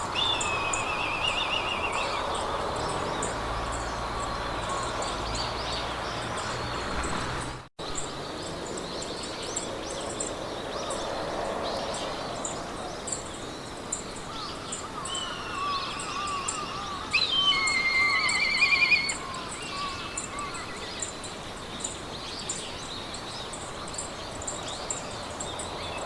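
Meadow ambience: birds singing short trilled phrases over a soft steady wind haze and a fast, even, high ticking of insects. The birdsong is loudest about two-thirds of the way through. The whole sound cuts out for an instant about a third of the way in.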